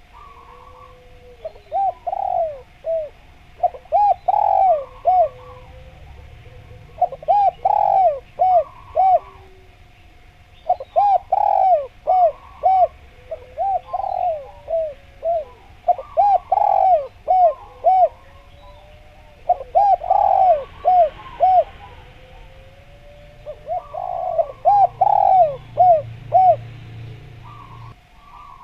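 Spotted dove (derkuku/tekukur) cooing in repeated phrases of several quick notes, a new phrase every three to four seconds.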